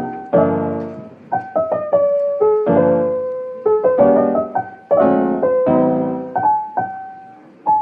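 Background piano music: slow, gentle chords struck about once a second and left to fade, with a simple melody of single notes above them.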